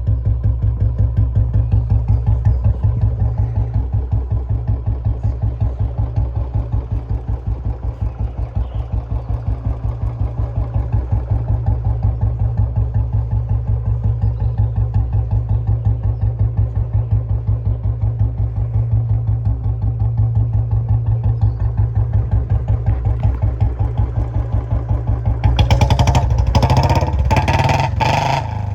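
Royal Enfield Bullet Standard 350's single-cylinder four-stroke engine idling through a loud aftermarket Chota Punjab silencer, a steady low, evenly pulsing exhaust beat. Near the end the throttle is blipped a few times, louder and sharper.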